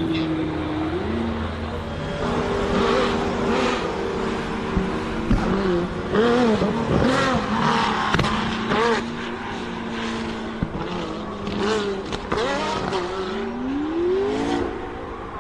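Delage D12 hypercar's V12 engine revving, its pitch rising and falling several times in quick blips through the middle and climbing again near the end.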